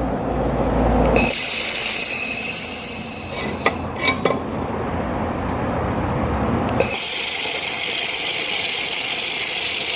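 Handheld laser welder running, a steady high hiss. It starts abruptly about a second in, fades somewhat around the middle, and comes back louder about two-thirds of the way through.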